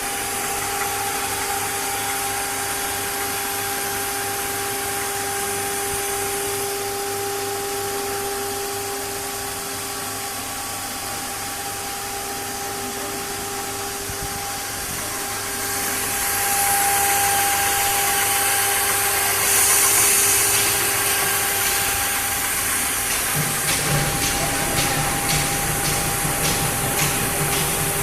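A four-axis CNC router's 9 kW spindle running at high speed with a steady whine. About 16 s in a louder hiss of cutting joins, and for the last few seconds a low rumble and a run of regular ticks come in as it machines.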